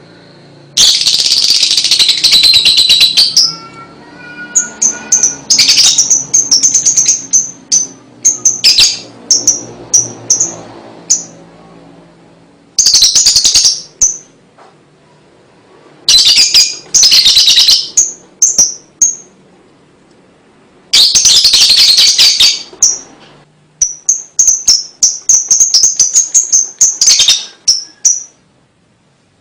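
Lovebird ngekek: bursts of rapid, rattling high-pitched chatter, each a couple of seconds long, broken up by strings of short, high chirps.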